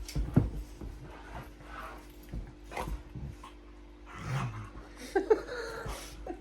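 A dog grunting and panting while it wriggles against being held, with scuffling knocks, and a short pitched whine or growl about five seconds in.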